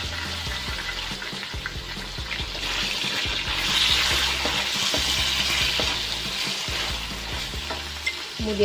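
Shrimp, squid, fish cake and carrot slices sizzling in hot oil in a steel wok while a spatula stirs and scrapes them. The sizzle grows louder a few seconds in, when the stirring starts.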